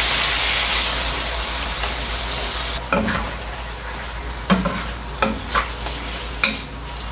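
Chicken livers and gizzards sizzling in a hot wok as soy sauce is poured in, the sizzle loudest at first and dying down. A wooden spatula then stirs and scrapes against the pan several times.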